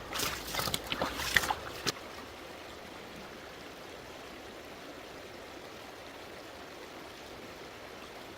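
Water splashing for about the first two seconds, then a steady sound of flowing stream water.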